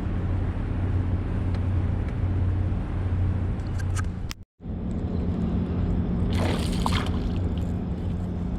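Boat motor running steadily under the sound of moving water, with a short burst of splashing about two seconds after a sudden break in the sound near the middle.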